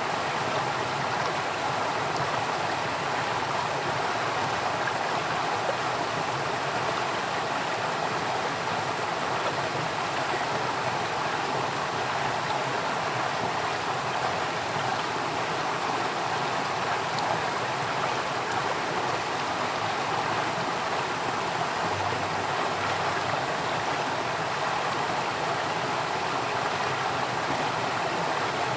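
Steadily flowing stream water, a continuous rushing and babbling.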